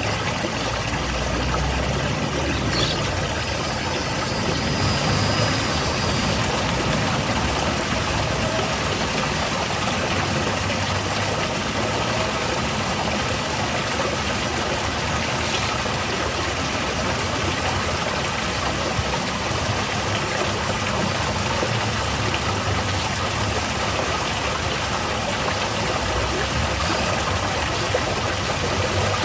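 Waterfall: water falling and splashing steadily, a constant even rush of noise with a low rumble beneath it.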